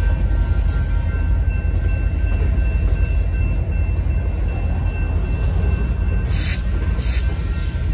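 Freight train cars rolling past: a steady low rumble of wheels on rail, with faint thin squealing tones above it. Two short high-pitched bursts come about half a second apart near the end.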